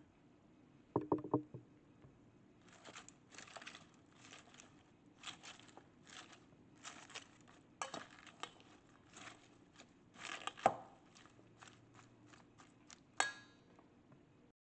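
Utensils working food in a bowl: a quick cluster of dish clinks about a second in, then a long run of short scraping, rustling strokes, with a few sharper knocks.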